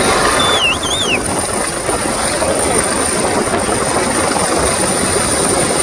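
HH-139 (AgustaWestland AW139) twin-turbine rescue helicopter running, a loud steady rotor and engine noise, with a short warbling whistle about half a second in.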